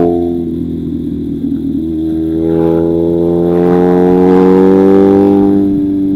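1994 BMW R1100GS flat-twin boxer engine running through an Akrapovic titanium exhaust on an R1200GS stainless manifold, ridden on the road. The engine note drops as the throttle eases at the start, then from about two seconds in climbs steadily as the bike accelerates, and falls away again near the end, likely a gear change or the throttle closing.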